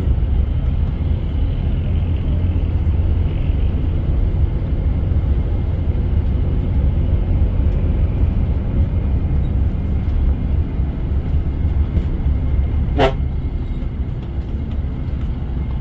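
Steady low rumble of a moving vehicle, engine and road noise heard from inside, with a single sharp tap about thirteen seconds in.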